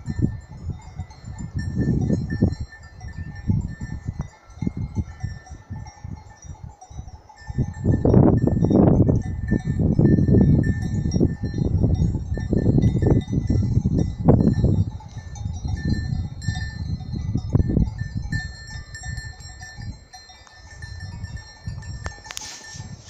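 Wind gusting against the microphone in surges, strongest about eight to fifteen seconds in and easing off near the end, with faint steady high ringing tones behind it.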